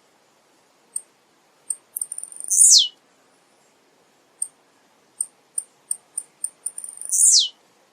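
Male blue-black grassquit (tiziu) singing: two sharp, high 'tiziu' phrases, each a quick downward sweep, about four and a half seconds apart. Between them are short high chip notes that come faster just before the second phrase.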